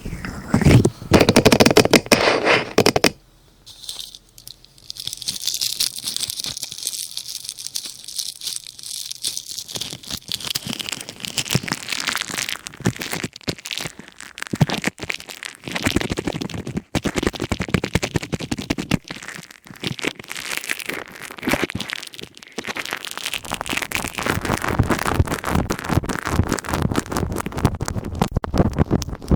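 Plastic ear cap crinkling and crackling as it is rubbed and scratched with an ear pick: a dense run of small crackles, loudest in the first few seconds, with a short lull about three seconds in.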